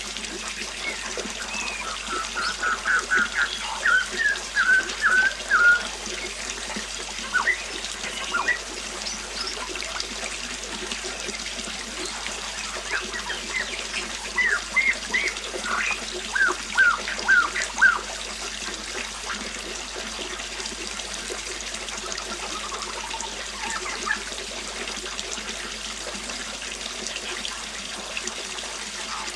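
River water flowing steadily, with a songbird singing runs of quick repeated notes a few seconds in and again around the middle, and a few fainter calls later.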